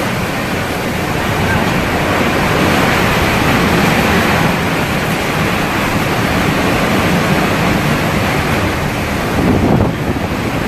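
Hurricane wind blowing hard and steadily, buffeting the microphone, with a brief gust near the end.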